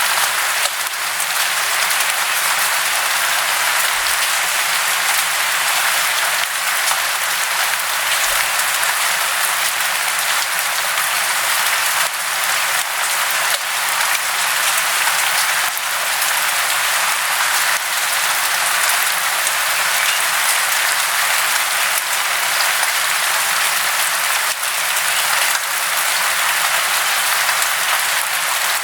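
Steady, dense hiss of falling water, even and unbroken, with almost no low rumble.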